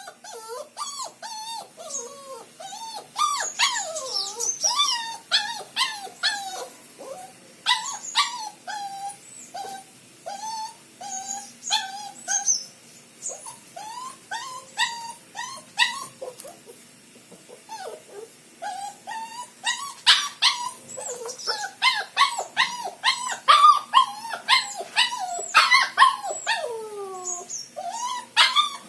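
A dog whining and whimpering over and over in short rising and falling cries, mixed with sharp yips. The calls thin out briefly past the middle, then come louder and faster near the end. This is the distress of a dog left alone outside, seemingly anxious.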